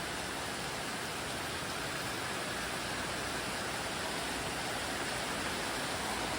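Heavy tropical downpour: a steady, even hiss of rain with no let-up.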